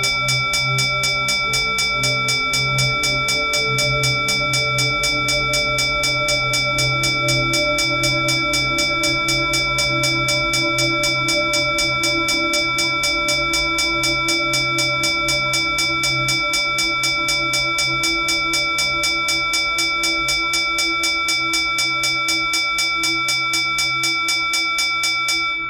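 Puja hand bell rung rapidly and continuously, about six strikes a second, its ringing tones held steady over a low hum, until it stops suddenly at the end and rings out briefly.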